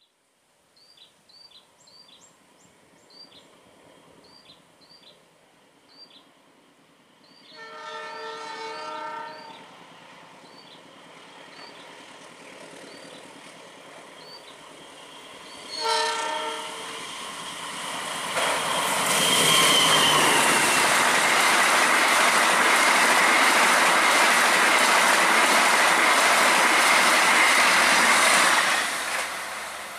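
A KAI passenger train's diesel locomotive sounds its horn, a chord lasting about two seconds, and gives a second short blast as it nears. The train then passes close by with a loud, steady rush of wheels on rail, which falls away shortly before the end. Faint high chirps repeat in the opening seconds.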